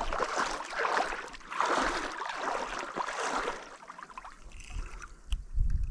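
Water splashing and sloshing in repeated surges about once a second, giving way to a low rumble near the end.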